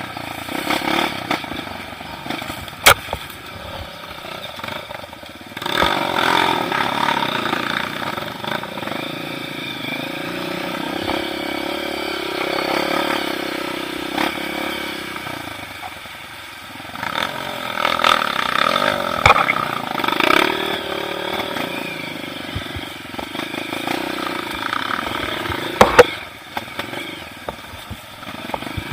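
Off-road motorcycle engine running and revving up and down, with clattering knocks; the sharpest knock comes near the end.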